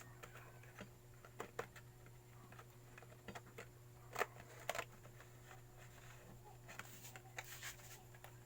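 Faint, scattered clicks and light taps of small hand work, the sharpest a little past halfway, over a steady low hum.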